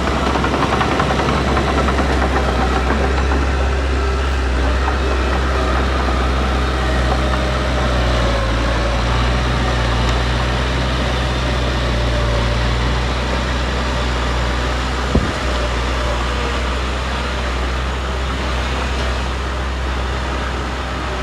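Heavy construction machine's diesel engine running steadily, with a single sharp knock about fifteen seconds in.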